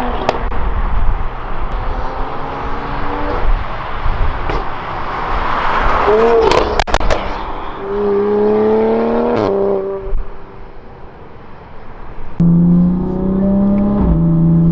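Toyota Supra's engine through an aftermarket valved racing exhaust with the valves open, accelerating: the pitch climbs and drops back at each gear change several times. It then eases off and settles into a steady tone for the last couple of seconds.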